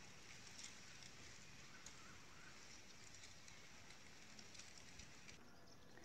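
Near silence: faint outdoor background with a few faint, distant bird chirps.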